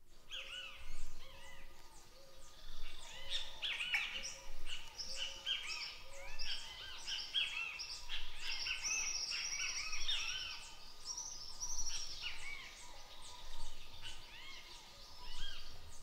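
A dense chorus of birds chirping, many short rising-and-falling calls overlapping, with a lower note repeating about once a second for the first several seconds.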